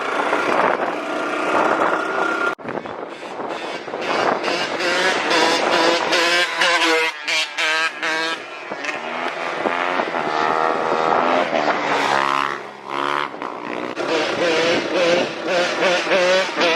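Dirt bike engines running and revving up and down, their pitch rising and falling over and over as the throttle is worked.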